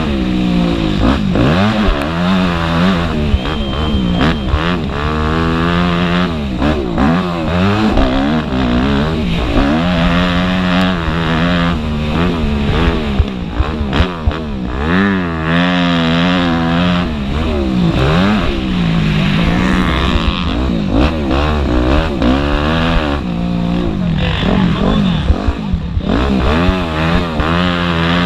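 Motocross bikes racing, their engines revving up and falling back again and again as they work around the track, with several bikes heard at once at times.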